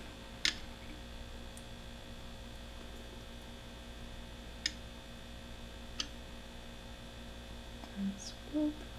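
Steady low electrical mains hum, with a few faint isolated clicks from handling utensils while vanilla extract is measured out.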